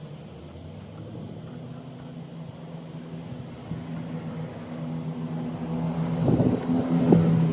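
A motor vehicle's engine running with a steady low hum, growing louder toward the end.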